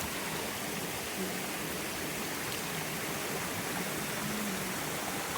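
Steady rush of flowing water from a mountain stream or waterfall.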